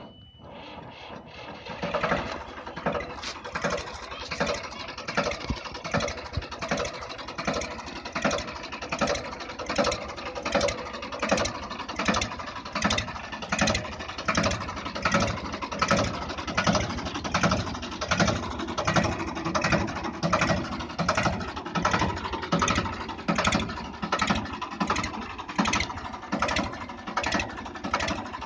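Ford 3000 tractor engine starting by remote control and catching about two seconds in, then running at idle with a steady, even pulse.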